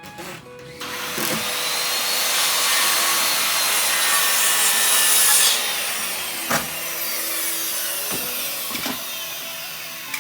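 Power saw cutting through lumber: the noise builds for a few seconds, then fades with a falling whine as the blade winds down, with a few sharp knocks near the end.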